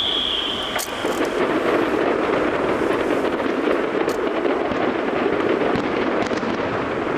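Aerial fireworks: a whistling rocket's tone falls in pitch and ends about a second in. It gives way to dense, continuous crackling from bursting shells, with a few sharper cracks.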